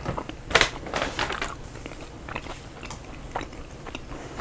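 Close-miked chewing of a mouthful of salad bowl (lettuce, guacamole, cheese): soft, irregular wet clicks and mouth smacks, with one louder noisy burst about half a second in.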